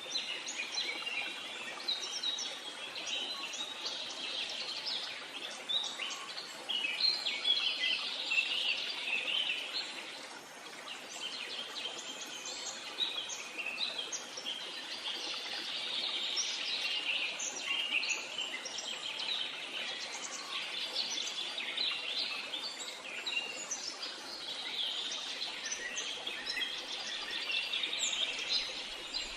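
A chorus of many birds chirping and singing at once, a dense run of short high calls and trills over a faint steady hiss.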